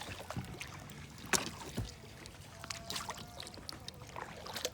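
Kayak on the water: paddle strokes splashing with scattered knocks of the paddle against the hull, and one louder knock a little over a second in.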